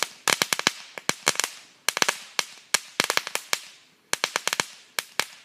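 Consumer firework going off in rapid runs of sharp cracks and pops, several a second, with short lulls between the runs.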